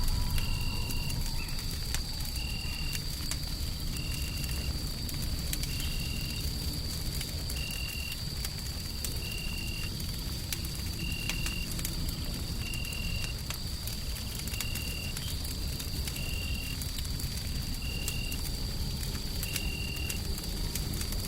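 Wood fire crackling in a fireplace over a steady low noise bed. A short high chirp repeats about every second and a half to two seconds, over a faint steady high tone.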